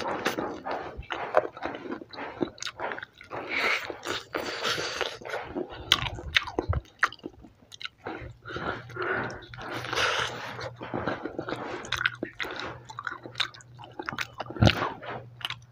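Close-miked chewing and biting into fried chicken, with irregular crunching of the breaded skin and wet mouth sounds.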